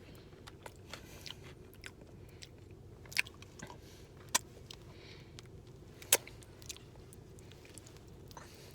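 A person chewing a mouthful of buffalo chicken nacho fries close to the microphone, with scattered short mouth clicks; the sharpest come about three, four and a half and six seconds in.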